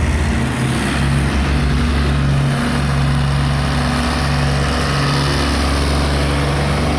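Tractor diesel engine running steadily with a deep, low drone.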